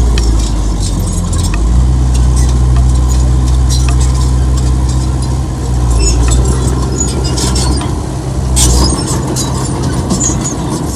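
Heavy diesel engine of earthmoving equipment running steadily, its note changing about two seconds in and again near the end, with scattered clanks and rattles over it.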